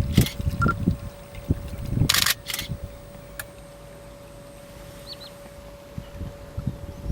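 Camera handling noise: low thumps and sharp clicks from the camera body being handled, with a short electronic beep under a second in. It then goes quieter, with a faint two-note high chirp about five seconds in.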